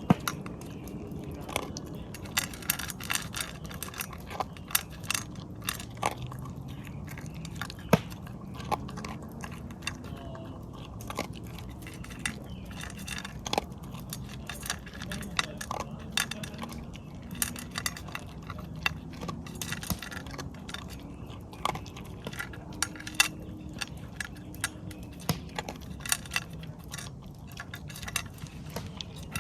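Shiba Inu chewing and crunching on something hard, with many irregular sharp crunches.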